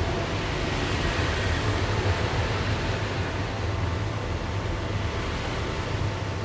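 Daewoo Lanos engine idling steadily, a low even hum under a mechanical hiss.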